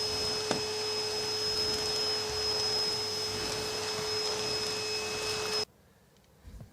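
An electric motor runs at a steady speed with a whirring rush and a constant high whine, then cuts off abruptly about five and a half seconds in.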